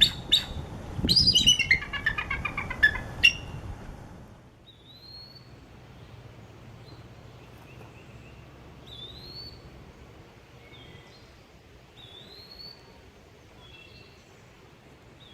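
Songbirds singing: a loud, rapid song with a falling run of notes in the first few seconds, then fainter short rising whistles every few seconds.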